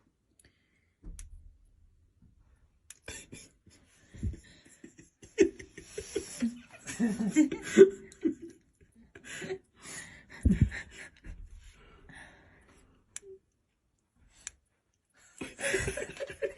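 People laughing and giggling in short, irregular bursts, with a louder burst of voice near the end.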